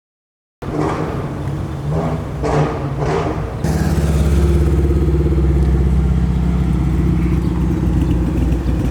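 Car engine after a brief silence: a few short revs, then from about four seconds in a loud, steady run with a deep low rumble.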